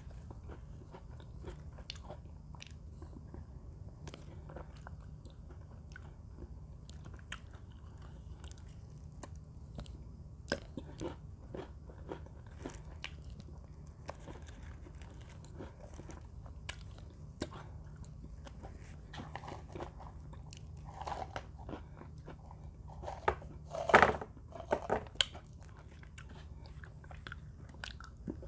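Mini Oreo cookies being bitten and chewed close to the microphone: a run of small, sharp crunches, with a louder cluster of crunches near the end, over a steady low hum.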